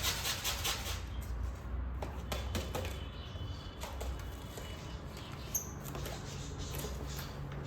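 Pet parakeet moving about: scattered light taps and scratches, with a brief high squeak about five and a half seconds in.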